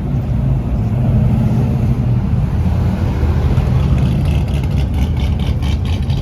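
A vehicle engine running with a steady low rumble. From about four seconds in, a faint rapid ticking joins it, about four ticks a second.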